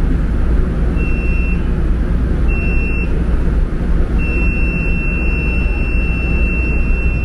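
Steady low rumble inside an MRT-3 train car. Over it a high electronic buzzer tone sounds briefly twice, then is held for about four seconds.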